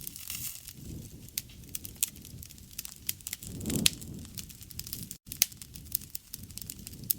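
Wood bonfire crackling: many irregular sharp pops and snaps over a low rumble of burning, which swells briefly in the middle.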